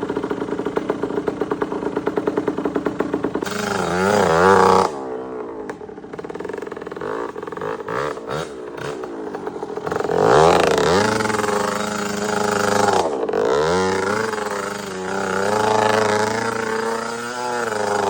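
KTM 65 dirt bike's small single-cylinder two-stroke engine idling with a pulsing beat, then revving up hard about three and a half seconds in as it launches, and dropping off. From about ten seconds it runs loud again, its pitch climbing and dipping repeatedly as it rides.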